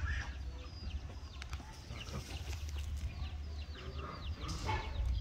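Birds chirping in a run of short, quick calls that fall in pitch, over a steady low rumble.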